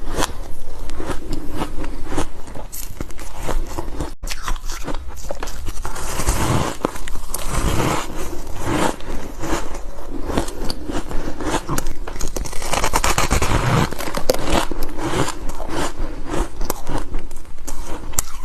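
Close-miked biting and chewing of frozen ice: continuous, irregular crunching and crackling.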